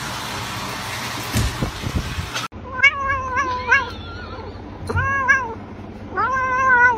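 A domestic cat meowing repeatedly: a quick run of short meows, a single meow, then a longer drawn-out meow near the end. Before it, a steady rushing noise with a few low thumps cuts off abruptly.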